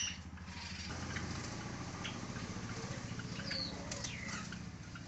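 Budgerigars and Java sparrows in an aviary chirping in scattered short calls, with a few falling notes, over a steady low hum.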